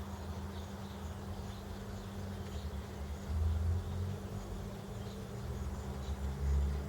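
Birds chirping faintly and repeatedly with short high calls, over a low rumble and a steady hum; the rumble swells about halfway through and again near the end.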